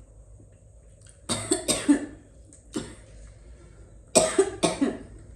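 A person coughing in two short fits of about three coughs each, some three seconds apart, the choking cough of someone who has just taken a mouthful of very spicy sauce and noodles.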